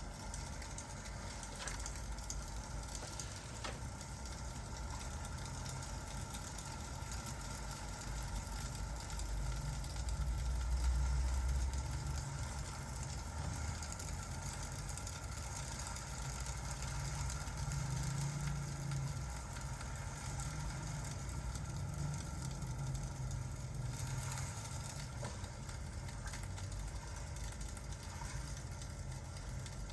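Fireplace-and-rain ambience: an even hiss of rain with a few faint crackles from the fire, over a steady low rumble that swells for a couple of seconds about ten seconds in.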